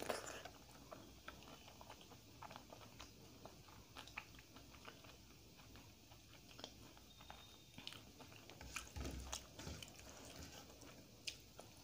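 Quiet close-up chewing of a handful of dal chawal (rice and lentils) with egg fry, with soft, wet mouth clicks scattered throughout. Around nine seconds in comes a denser run of clicks with a low rumble, as fingers mix the rice on the plate.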